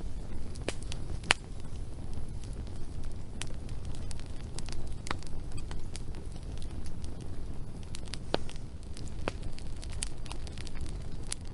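Wood fire burning, with irregular sharp crackles and pops over a steady low rumble; the loudest pop comes about a second in.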